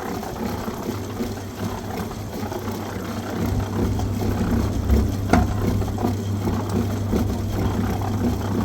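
An engine running steadily with a low hum, with a few sharp knocks over it, the loudest about five seconds in.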